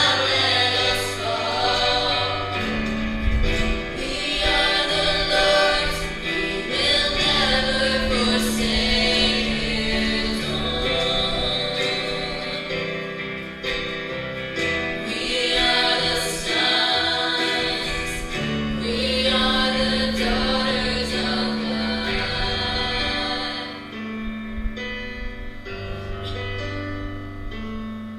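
Choir singing a gospel-style worship song over instrumental backing with a steady bass line; the voices thin out near the end.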